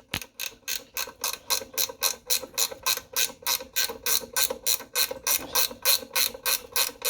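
Hand ratchet wrench clicking steadily, about five clicks a second, as bolts are being undone.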